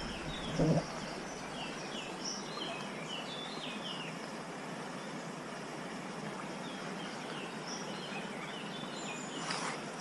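Small birds chirping and twittering in short bursts of song over a steady background hiss, with one brief low knock early on.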